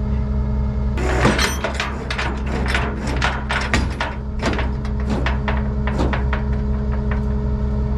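A truck engine idles steadily while the dump truck's sheet-metal fender is forced straight under tension. From about a second in it gives a quick, irregular run of creaks and pops that stops after about five seconds.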